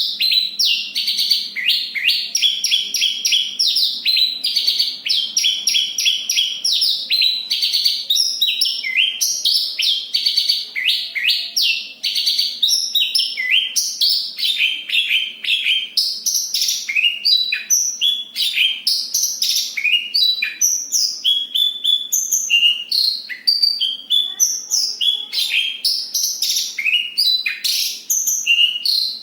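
Javan bush lark (branjangan) singing continuously. A dense, fast rolling trill runs for the first several seconds, then the song breaks into a varied run of quick chirps and down-slurred notes.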